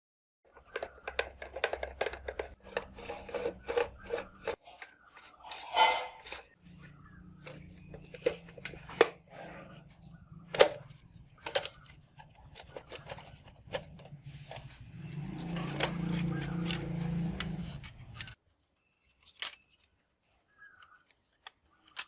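Handling of a plastic radio cassette recorder's parts during disassembly: irregular sharp clicks, knocks and scraping. A steady low hum runs through the middle, grows louder a few seconds before the end and cuts off suddenly.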